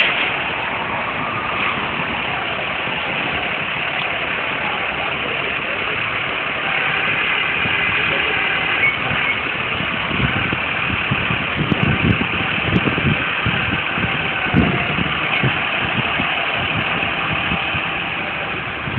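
Tow truck engine idling steadily, with a run of low knocks and thuds about halfway through.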